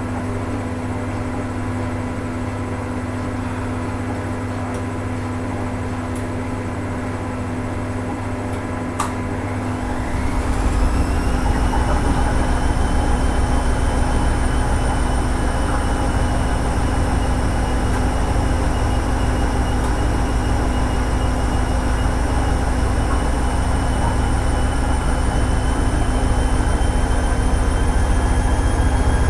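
Hoover Ecologic 800 washing machine running with a steady hum; about nine seconds in there is a click, then the motor winds up with a rising whine that levels off and a louder rumble as the drum speeds up into a spin.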